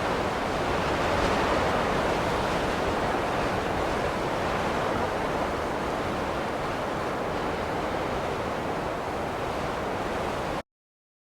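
Steady rushing snowstorm wind, an even noise without pitch or rhythm. It cuts out abruptly to silence near the end.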